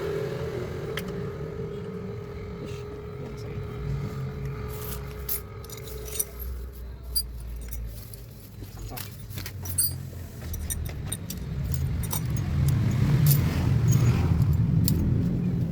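Car engine running with a steady low rumble that grows louder about twelve seconds in, while light metallic clinks, like tools or keys, sound here and there throughout.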